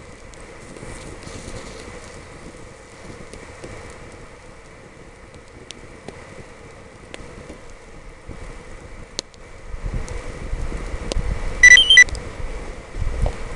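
Small wood campfire burning with a few sharp pops, a nearly empty Cricket gas lighter in it that does not burst. About twelve seconds in comes a short, loud, high-pitched whistle, twice. Wind buffets the microphone in the last few seconds.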